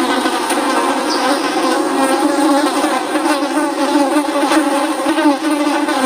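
Several flies buzzing continuously, a dense hum of overlapping, wavering pitches.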